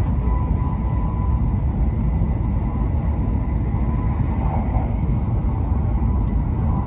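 Steady rumble of an E7/W7-series Hokuriku Shinkansen train running at speed, heard from inside the passenger cabin, with a faint high steady whine above it.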